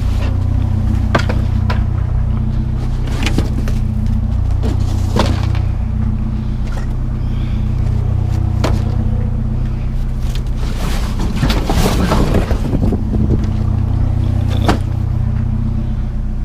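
A motor vehicle engine idling steadily, with scattered knocks and clatters of scrap items being handled, busiest a little past the middle.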